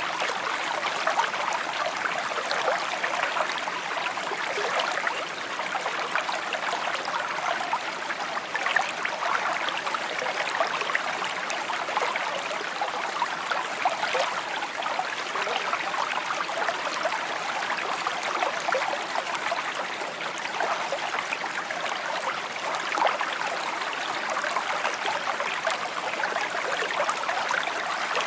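Small stream flowing steadily over stones, a continuous babbling trickle with fine splashing and gurgling.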